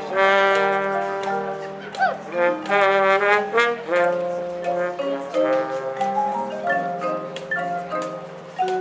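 Marching band playing: brass chords held and shifting, with mallet percussion and drum strokes.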